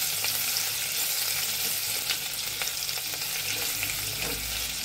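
Crushed ginger and garlic sizzling steadily in hot mustard oil in a metal kadhai, with light scrapes of a wooden spatula stirring them.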